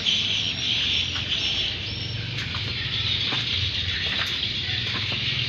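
Birds chirping over a low steady hum.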